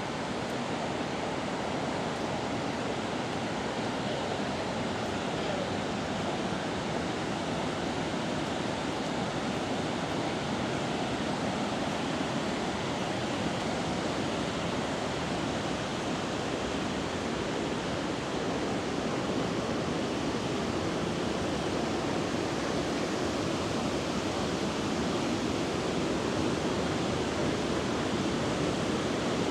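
River water rushing steadily over rocks, a constant even rush that grows slightly louder near the end.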